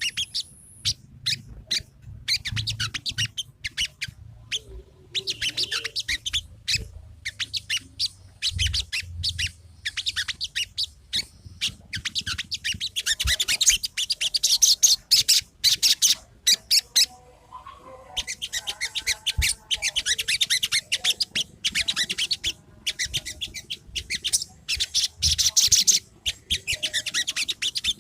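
Crimson sunbird (sogon) singing: fast runs of high, thin chirps and trills in phrases of a second or a few seconds, with short pauses between them.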